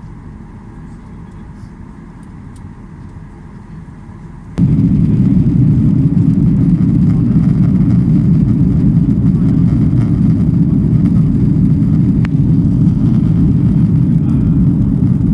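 Boeing 737-800 cabin noise: a steady low engine and airflow rumble. It is moderate at first, then jumps abruptly to a much louder rumble about four and a half seconds in.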